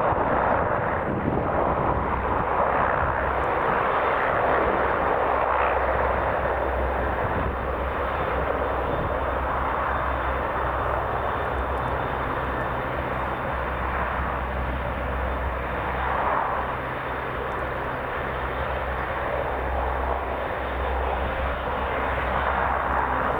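Royal Navy Merlin HC.4 helicopters running, a loud steady turbine-and-rotor noise with a thin high whine over it.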